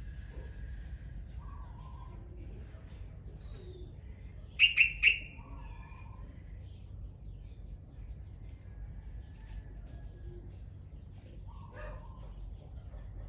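Birds calling, with scattered faint chirps and three loud, sharp calls in quick succession about five seconds in.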